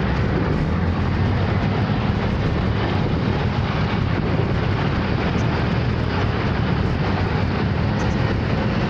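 Motor scooter engine running steadily while riding, a constant low drone under a dense, even hiss of road and air noise.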